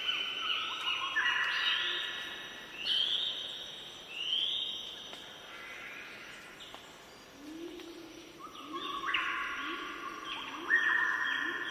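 Birds singing: clear whistled notes held at stepped pitches, some sliding downward, in phrases that swell and fade. From about seven seconds in, a low call repeats roughly once a second beneath them.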